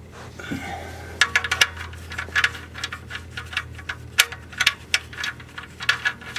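Irregular light metallic clinks and clicks, many in quick uneven succession, starting about a second in: small metal objects or tools being handled.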